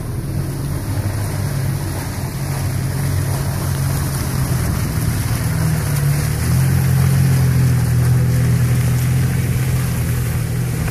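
A Jeep's engine running as it drives through mud, growing louder as it comes close about six seconds in.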